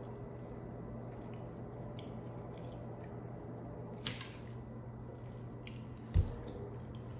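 Close-up chewing and wet mouth sounds of someone eating a cheesesteak sandwich: soft squishy smacks and small clicks, over a steady low hum. A single dull thump about six seconds in.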